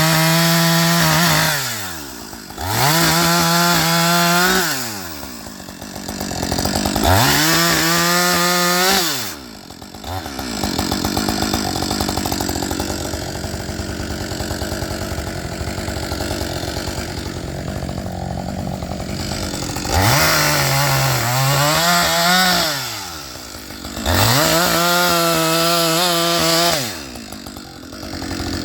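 Husqvarna 555 two-stroke chainsaw engine revved up to high speed and dropped back to idle about five times, idling steadily in between. In the fourth surge, about 21 seconds in, the revs sag briefly and recover.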